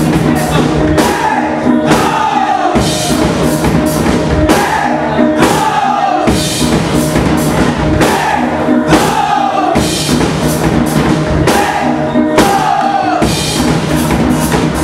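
Steel-drum band playing live: steel pans with drums keeping a steady beat, and a short falling phrase repeating every second or two.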